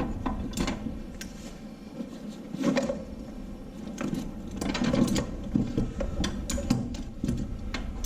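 Irregular metallic clicks, knocks and clatter of pliers and hand tools working on engine parts, as lifters are worked out of an LS V8 during teardown.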